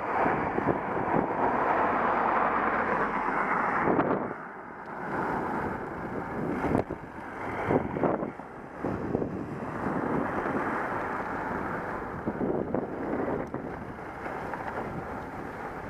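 Wind buffeting the microphone of a bike-mounted action camera while cycling, rising and falling in gusts and dropping off about four seconds in, with scattered short clicks and knocks.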